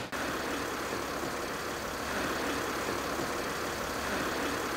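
Car engine idling steadily, with an even hiss and rumble of street noise.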